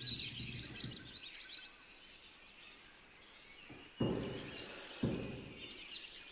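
Faint small-bird chirping in the background, with a few soft thuds that fade away, about four and five seconds in.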